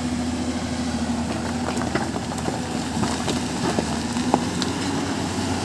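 Heavy construction machine's engine running at a steady speed, with light clicks and knocks here and there.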